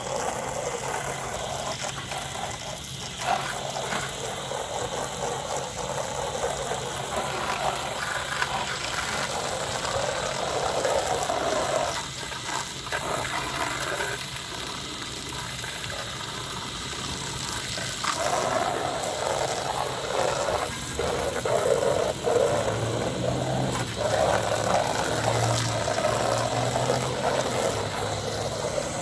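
Water spraying from a hose nozzle onto vinyl siding and windows, a rushing spatter that swells and drops as the spray moves, with a few brief breaks.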